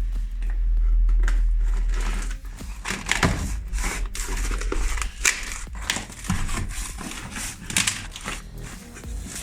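Packaging rustling and crinkling, with irregular clicks and knocks, as a boxed bioethanol fireplace burner is unpacked by hand. A deep rumble of handling noise fills the first two seconds.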